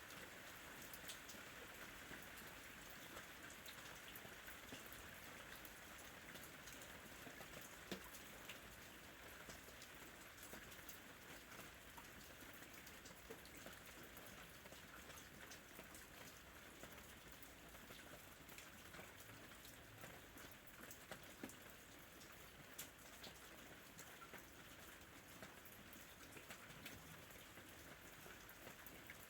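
Faint, steady ambient rain with scattered individual drop ticks, one sharper drop about eight seconds in.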